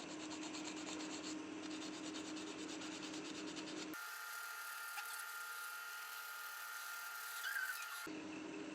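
Rubbing and filing sounds of hand work on a small die-cast car body, over a faint steady hum. The sound changes abruptly about four seconds in and again near the end.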